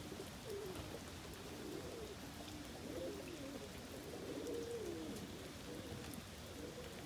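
Domestic homing pigeons cooing: a string of low, rising-and-falling coos, several birds overlapping.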